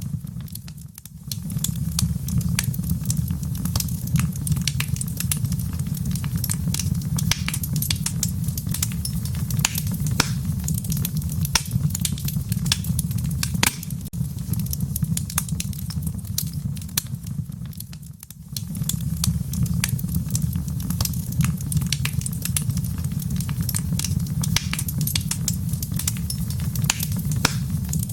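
Wood fire burning in a fireplace: a steady low rumble with many sharp, irregular crackles and pops. The sound dips briefly about a second in and again about 18 seconds in.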